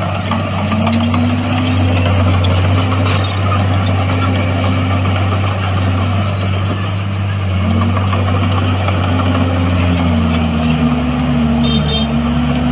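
Diesel engine of heavy earthmoving machinery running loudly and steadily, its note dipping and picking up again several times as the load changes, with a second engine note joining near the end.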